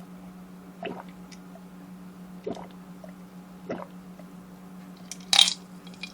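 Close-miked mouth sounds of eating: a few soft, wet chewing and squishing sounds, then one louder, sharper bite or slurp about five seconds in. A steady low electrical hum runs underneath.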